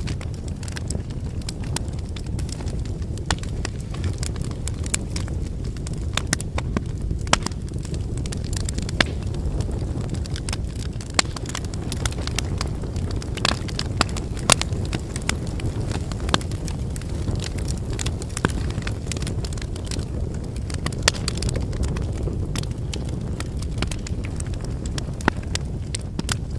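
Wood bonfire burning: a steady low rush of flame with frequent, irregular sharp crackles and pops from the burning firewood.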